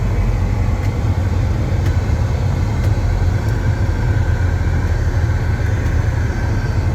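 Semi truck's diesel engine running at low speed, a steady low drone.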